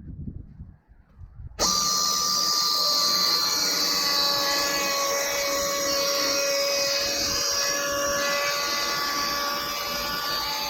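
Logosol E5 electric chainsaw on an M8 sawmill, sawing along a log. It cuts in abruptly about one and a half seconds in and then runs steadily with a high whine, after a few low thumps.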